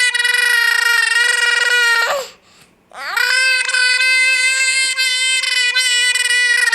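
Long, steady, high-pitched wailing cries: one runs on from before and ends about two seconds in, and after a short pause a second one is held for about five seconds.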